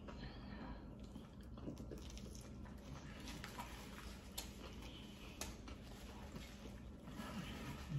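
Faint chewing and mouth sounds from eating a sub sandwich, with scattered light clicks and rustles of a paper napkin and wrapper, over a steady low hum. A slightly louder click comes near the end.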